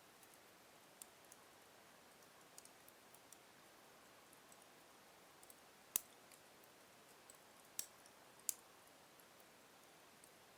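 Logs burning in a fireplace, crackling faintly with sparse small ticks over a soft hiss, and three louder sharp pops in the second half.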